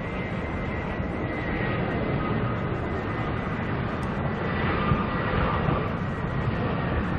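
Jet airliner engines running, a steady rumble with a high whine that drifts slightly lower in pitch and a gentle rise in loudness partway through.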